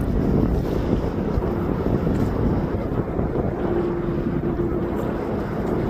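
Wind buffeting the microphone: a steady low rumble, with a faint held tone about halfway through.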